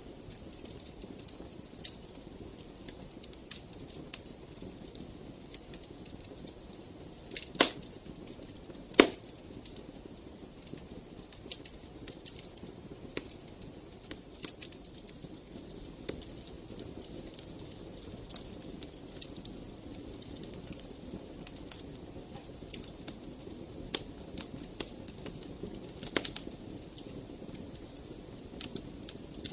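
Wood fire crackling: a steady low rustle of flames with irregular sharp snaps and pops, two loud pops about seven and a half and nine seconds in.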